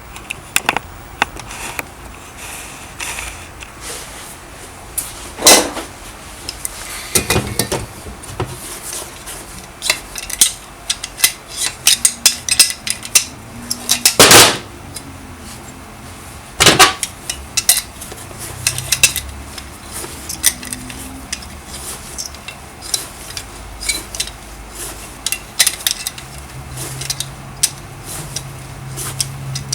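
Metal hand tools and scooter engine parts clinking and knocking during engine disassembly: many small clicks with a few louder clanks scattered through.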